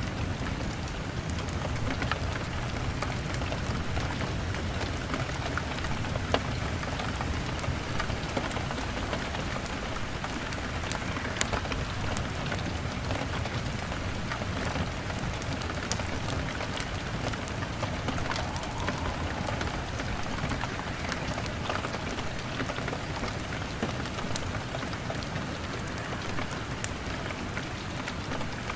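Steady rain on a window, mixed with the scattered sharp crackles of a wood fire, over a steady low rumble.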